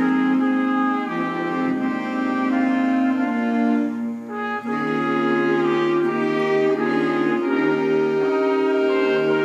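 School wind band playing a piece in sustained chords, with a short break in the sound about four seconds in before the chords resume.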